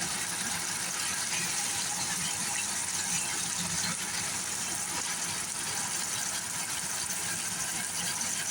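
Spice paste of green-chilli paste, turmeric and salt sizzling steadily in hot oil as it is fried down.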